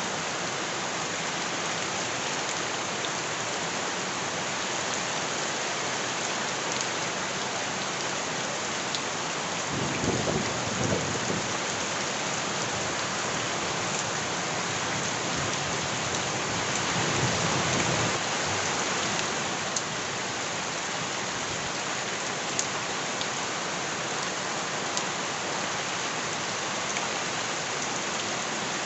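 Steady rain falling, with scattered drop ticks. Two low rumbles of thunder swell up, one about ten seconds in and a longer one about seventeen seconds in.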